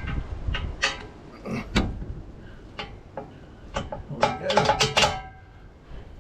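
Irregular metallic clinks and knocks of tools and bolts on the steel hitch hardware, some ringing briefly, with a quick flurry of clinks about four and a half seconds in.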